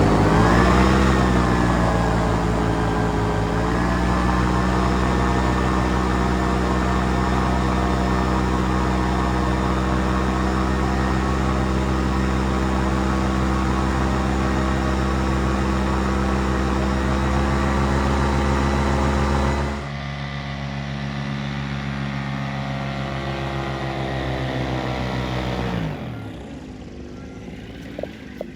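Paramotor engine and propeller running steadily, with a brief rise and dip in pitch at the start, then winding down and stopping near the end.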